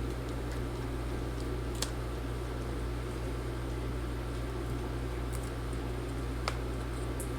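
Steady low room hum with a few faint sharp clicks, the clearest about two seconds in and near the end. The clicks are a small T3 Torx screwdriver and tiny screws being driven into a MacBook Pro A2251's battery mounts.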